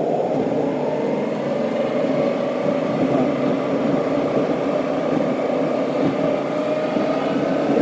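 A car driving along a road: a steady mix of engine and tyre noise, with faint tones that rise slightly partway through.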